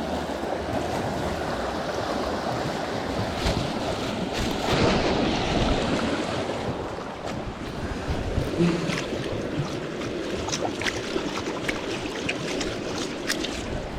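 Steady rushing of flowing stream water with wind buffeting the microphone, swelling louder for a couple of seconds midway. Scattered light clicks and taps over the second half.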